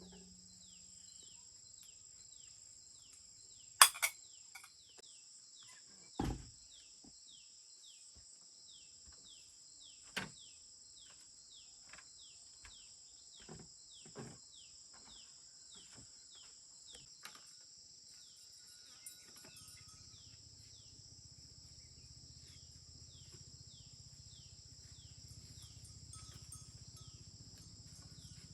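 Insects trilling in a steady, high, continuous drone, with a short falling chirp repeating about every half second. A few scattered knocks and clicks are heard, the sharpest about four seconds in and a dull thud about two seconds later.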